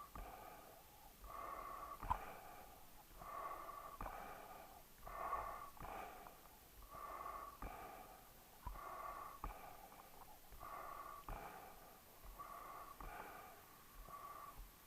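A dog breathing noisily and rhythmically, with a faint wheezy breath about once a second and a few light clicks in between.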